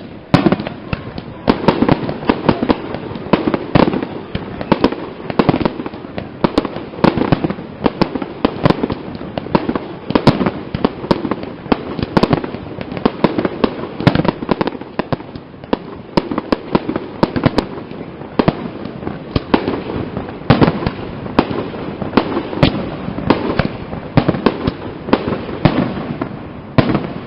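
Castillo fireworks display: shell bursts going off in quick succession, several bangs a second, over steady crackling.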